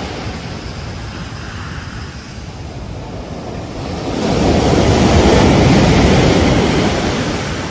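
Ocean surf at a beach: one wave swells and breaks about four seconds in, after a lull, then washes out.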